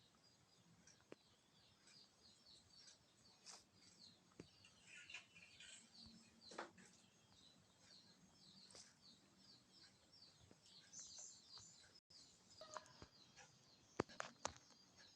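Faint, steady chatter of small birds chirping, with a few sharp clicks near the end.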